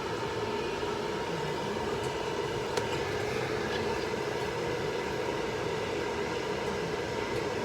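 Electric hair dryer running steadily, a constant rush of air with a faint steady whine above it.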